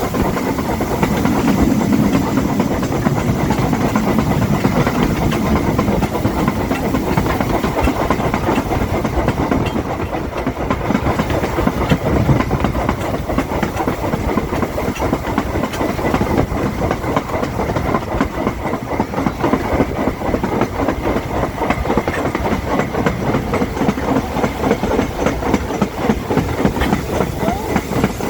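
Heritage train running along the line: a steady rumble with a fine, rapid clatter of wheels on the track and some hiss.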